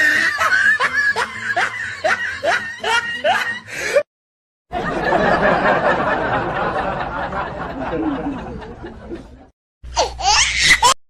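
Snickering laughter in quick short bursts, about three a second, that cuts off suddenly about four seconds in. After a brief silence comes a stretch of noisy hiss, then another short burst near the end.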